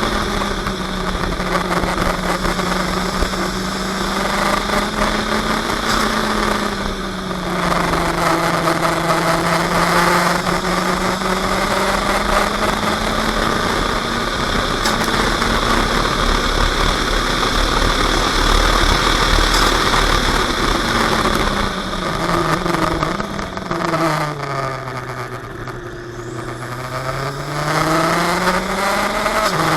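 A 400 hp open-wheel sports car's engine heard from on board at racing speed. Its note holds high, sags briefly about a quarter of the way in, then drops well down near the end as the car slows and climbs back up under power. A steady rush of wind and road noise runs underneath.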